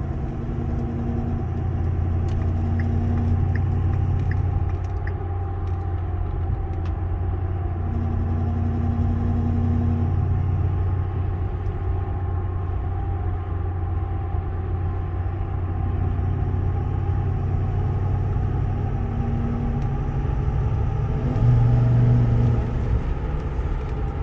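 2012 Ford F-350's 6.7 L Power Stroke V8 turbo-diesel running steadily while the truck is driven, with a low hum that comes and goes several times over the rumble and a louder swell near the end. The hum fits the unexplained noise the owner believes comes from the engine, most noticeable under light acceleration while cruising.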